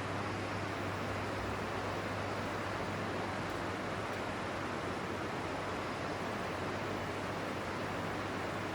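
Steady rushing of water, with a constant low hum beneath it.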